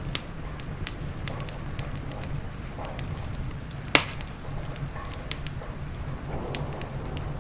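Wood fire crackling in a fireplace: scattered sharp pops and snaps, with one loud pop about four seconds in, over a steady low rumble and rain hiss.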